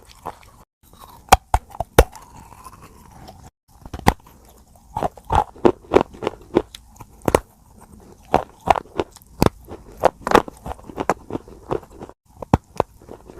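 Baked clay pot pieces being bitten and chewed, giving sharp, irregular crunches and cracks, several a second at the busiest.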